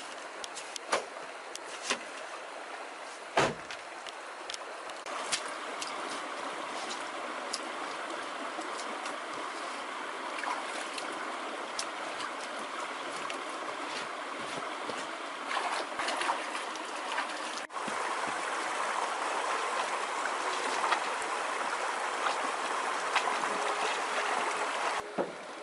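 Water running and splashing, with scattered clicks and knocks and one heavy thump about three and a half seconds in; the sound breaks off abruptly and resumes a little louder past the middle.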